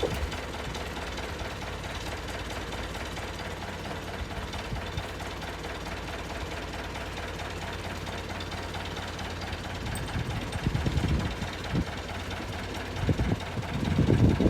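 A tractor's diesel engine idling steadily, with a fine even pulse, and louder irregular rumbles over it in the last few seconds.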